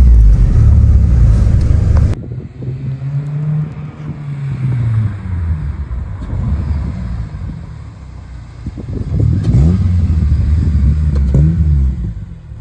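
Exhaust note of an 8th-generation Honda Civic Si on an aftermarket J2 Engineering cat-back exhaust while driving. A loud low rumble stops suddenly about two seconds in. After that the engine note rises and falls with the revs twice, quieter in between.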